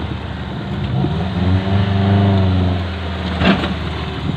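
Off-road 4x4's engine revving up under load as it climbs a steep dirt slope, then dropping back. A sharp knock comes about three and a half seconds in.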